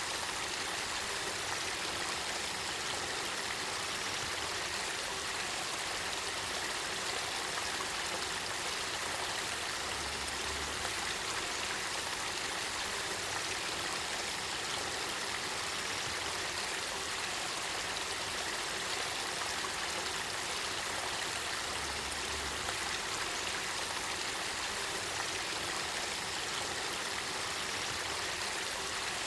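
Spring-fed river water welling up and flowing in a steady, even babble.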